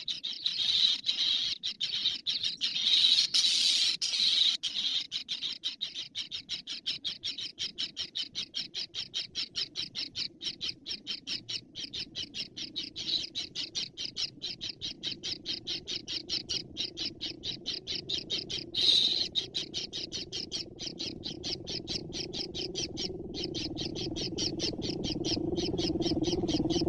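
A bird calling in a long, even series of short, high chirps, about four or five a second, with a few louder squawks near the start and partway through. A low hum grows louder underneath toward the end.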